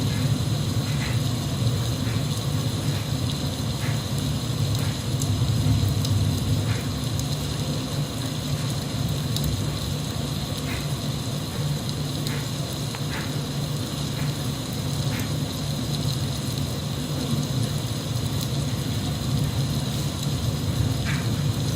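Steady rain, with scattered faint drop ticks over a constant low rumble.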